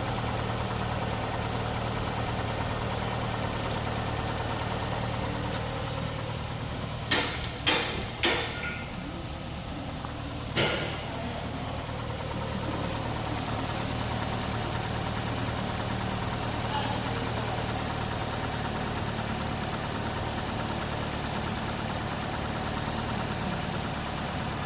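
A 2012 Nissan Altima's 2.5-litre four-cylinder engine idling steadily. A few sharp knocks sound in quick succession partway through, then one more shortly after.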